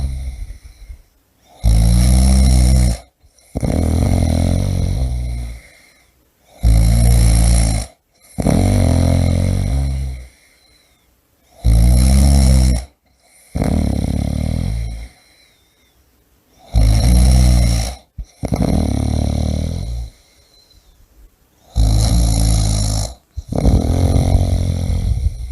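A person snoring loudly and rhythmically, with a rattling snore in two parts back to back about every five seconds.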